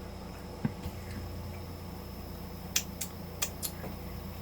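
Faint mouth clicks from chewing a bun: a single click early, then a quick cluster of four a little before the three-second mark, over a steady low hum.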